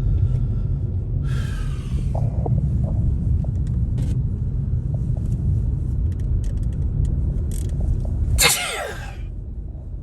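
Steady low rumble of vehicle road noise, with scattered light clicks. About eight and a half seconds in, a short sharp sound slides down in pitch.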